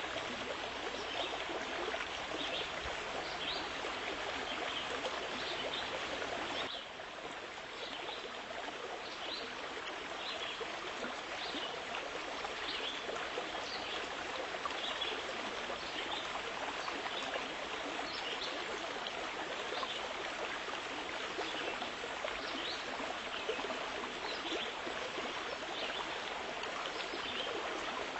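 Steady running water, like a flowing stream, with small high splashes or chirps scattered through it; the sound shifts and dips slightly about seven seconds in.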